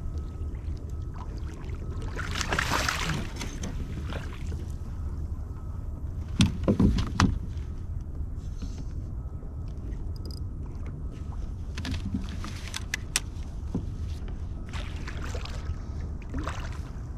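Water splashing beside a kayak as a hooked redfish is brought alongside, with a cluster of loud knocks on the kayak about six seconds in and a few lighter clicks later, over a steady low rumble.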